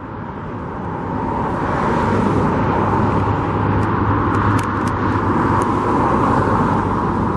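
Motor vehicle noise from road traffic, swelling over the first two seconds and then running steadily, with a few faint clicks about halfway through.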